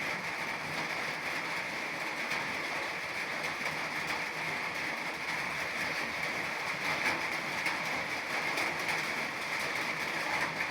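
Steady rain falling, a continuous even hiss with a dense patter of drops.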